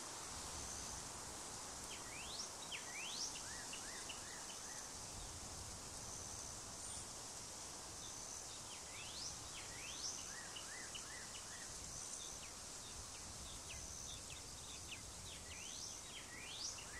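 Faint outdoor ambience over a steady hiss: a songbird sings a short phrase of quick rising whistles followed by a run of chirps, three times, several seconds apart.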